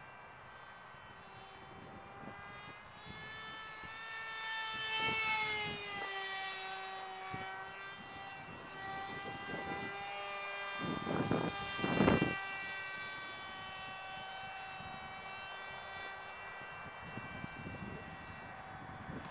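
Scratch-built twin-boom pusher RC foam airplane's motor and propeller whining at a steady pitch, growing louder about five seconds in and dropping in pitch as the plane passes by. Two gusts of wind hit the microphone about eleven and twelve seconds in.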